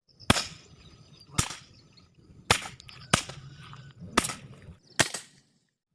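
Six air rifle shots, sharp cracks with a short tail, fired roughly once a second.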